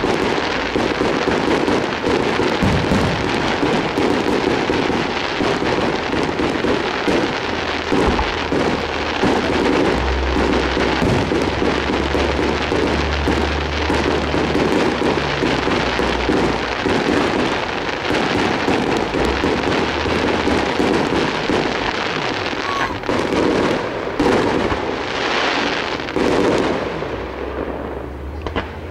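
Fireworks display: many shell bursts in quick succession, running together into a continuous barrage, with a few separate louder reports late on, then thinning out near the end.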